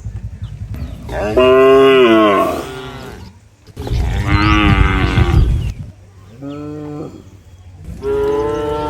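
Cattle mooing: about four loud, drawn-out moos one after another, each rising and then falling in pitch.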